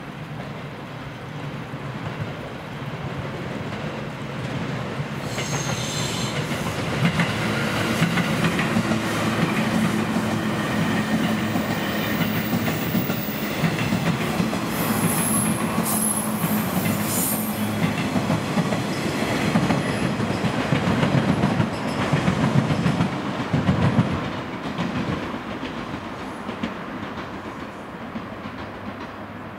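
An eight-car JR West 117 series electric train passes close by on curved track, its wheels clattering over the rail joints. High wheel squeal comes twice, about five and fifteen seconds in. The sound builds, stays loud through the middle, then fades near the end.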